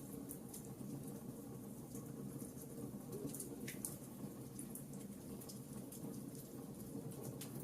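Log fire burning in a fireplace: scattered sharp crackles and pops, irregular and a few each second, over a steady low rumble of the flames.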